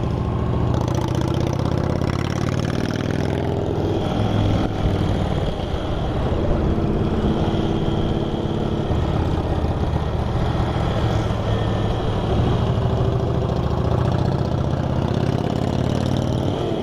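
Motorcycle engines running steadily while riding in a group, a continuous engine drone heard from on the bike.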